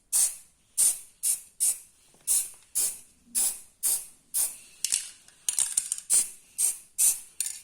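Aerosol can of heat-resistant spray paint being sprayed in short hissing bursts, about two a second, with a quick run of shorter puffs a little past the middle: light finishing passes of a coat on a motorcycle silencer.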